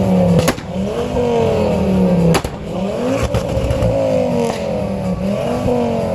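Car engine revving hard, its pitch climbing and falling again several times, with a few sharp cracks in between.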